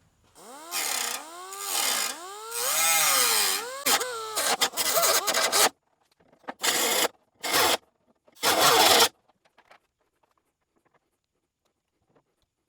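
A handheld power grinder working sheet metal. For about five seconds its pitch rises and falls again and again as it is pressed into the metal and eased off, then it runs in three short bursts and stops.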